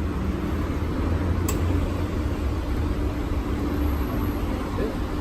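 A vehicle engine idling: a steady low rumble with a constant hum, and one faint click about one and a half seconds in.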